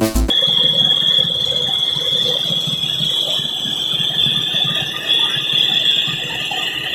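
Tractor-mounted air compressor rig running: a steady high-pitched whistle over a rough low rumble.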